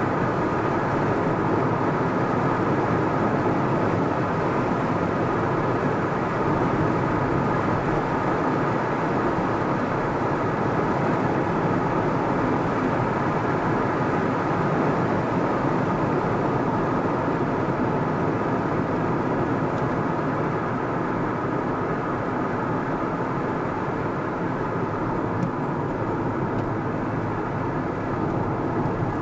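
Car driving at a steady speed: an even drone of tyre and engine noise.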